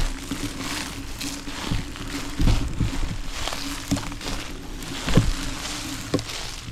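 Folding e-bike riding over a rough trail: a steady electric-motor hum under irregular crunching from the tyres, with several bumps.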